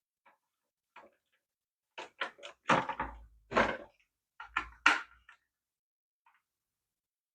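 A series of sharp clicks and knocks from handling the plastic parts of a toy RC car being taken apart, coming in two clusters with the loudest knocks about three and five seconds in.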